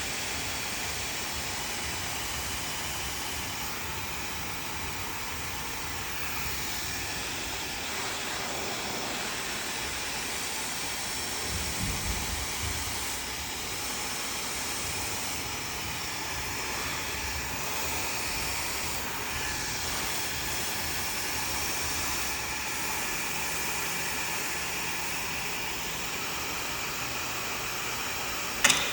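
Hair dryer blowing steadily, a rushing hiss of air, with one sharp click near the end.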